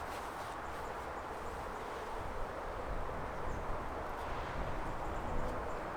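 Steady outdoor noise with irregular low rumbling of wind on the microphone, heavier after about two seconds.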